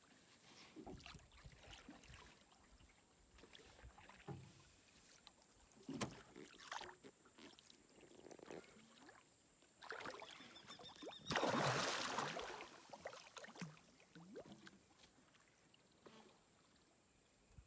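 Irregular water splashes and sloshing around a small boat, with one longer, louder splash about eleven seconds in.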